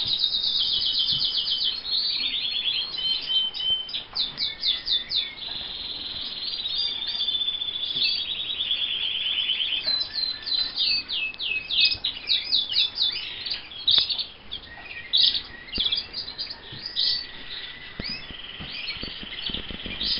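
Caged roller canaries singing: rapid trills, quick repeated notes and gliding whistles that overlap from more than one bird, with no break.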